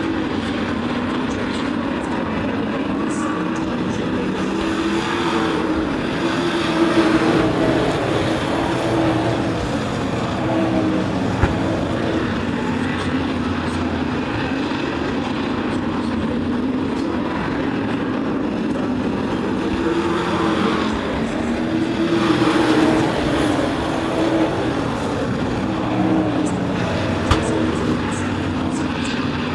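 Racing trucks' engines running laps on an oval track, the engine note swelling and wavering as the field passes, twice. Two isolated sharp clicks stand out.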